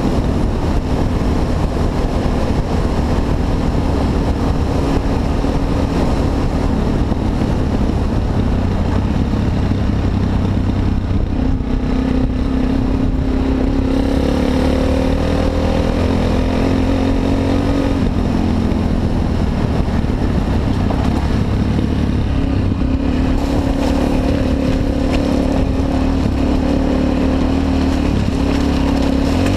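Honda XR250 Tornado's single-cylinder four-stroke engine running while the bike is ridden, its pitch rising and falling with the throttle.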